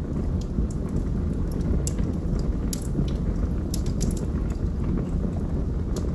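Wood fire burning in a fireplace: a steady low rush of flames with irregular sharp crackles and pops, several close together in the middle.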